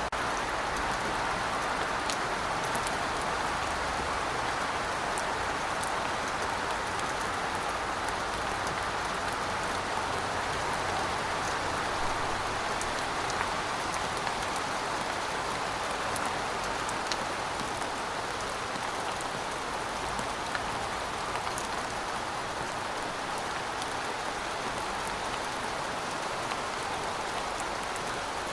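Heavy rain falling steadily: a dense, even hiss with scattered sharp ticks of individual drops striking surfaces.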